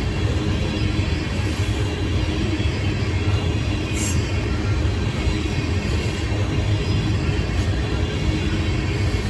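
Train passing, a steady rumble from its wheels on the rails.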